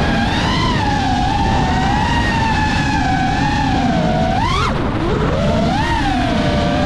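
FPV freestyle quadcopter's four 2405 2850KV brushless motors with Gemfan 4934 three-blade props whining, the pitch rising and falling with the throttle. About two-thirds of the way in the whine climbs sharply and then drops away suddenly as the throttle is punched and cut.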